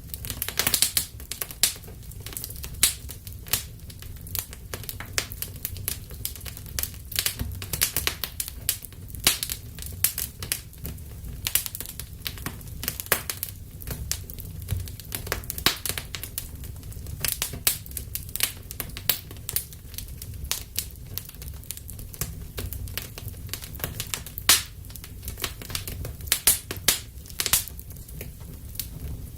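Wood fire in a fireplace crackling and popping: a rapid, irregular run of sharp snaps over a steady low rumble of the flames.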